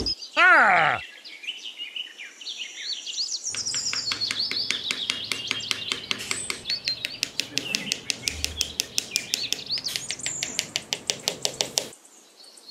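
Birds chirping and tweeting, with a short falling call about half a second in. From a few seconds in until near the end, a fast, even run of light taps, about six a second, sounds under the birdsong.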